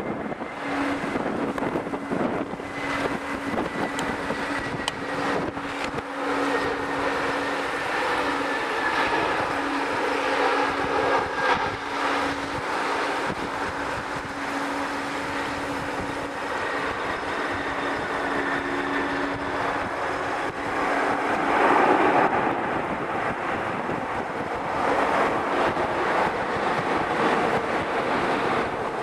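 Jet airliner engines running, a steady hum with a slowly falling whine above it, swelling louder about two-thirds through. Strong wind buffets the microphone throughout.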